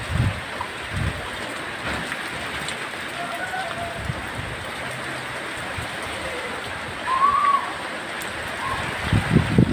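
Heavy rain falling steadily, a constant hiss, with strong wind gusting: low buffeting surges at the start and again near the end. A brief higher tone sounds about seven seconds in.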